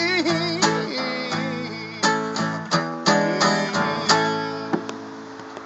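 Acoustic guitar strummed in closing chords of a song, each chord ringing out, the playing growing quieter and dying away toward the end.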